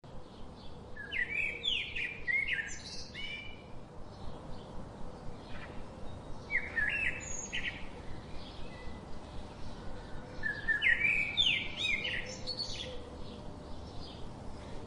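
A songbird singing three short phrases of quick, high notes a few seconds apart, with fainter chirping from other birds between them.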